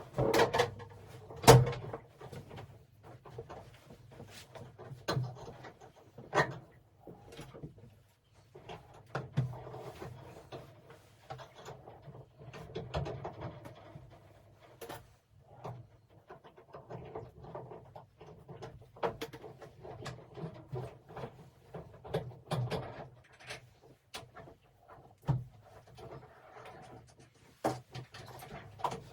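Irregular knocks, clunks and rattles of objects being handled and set down on a hard surface, with one loud bang about a second and a half in.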